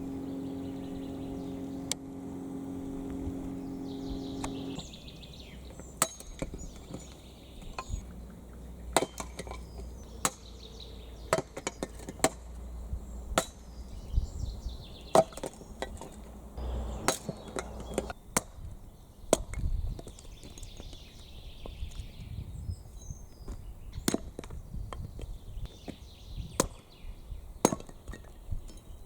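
Firewood being chopped: a string of sharp, irregular knocks of a blade into wood. A steady humming tone comes before them and stops about five seconds in, and birds chirp faintly.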